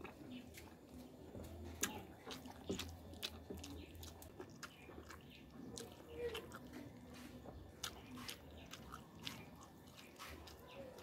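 Close-up eating sounds: chewing of soft rice and sauced fish, with sharp wet mouth clicks and smacks several times a second.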